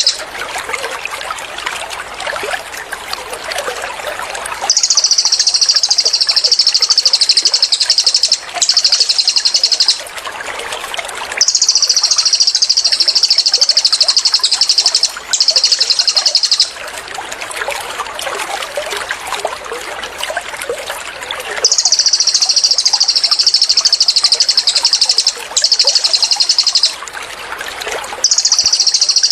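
Cililin bird giving its rapid-fire 'tembakan' song: very fast, high trills in bursts of one to four seconds, often two in quick succession, with short pauses between. Between the bursts, trickling water runs steadily underneath.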